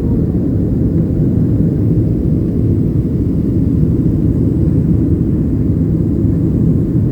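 Boeing 737-800's CFM56 jet engines and airflow heard from inside the passenger cabin as a steady, loud, low rumble during the climb after takeoff.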